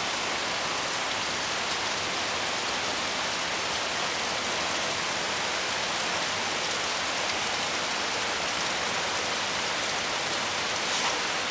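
Creek water rushing over rocks: a steady, even hiss.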